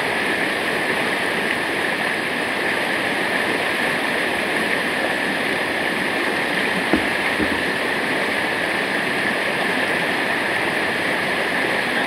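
Steady rushing of water from a waterfall or stream, with a single brief knock about seven seconds in.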